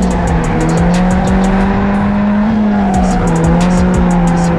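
Drift car engine held at high revs, its pitch climbing slightly and then easing back, with tyres squealing.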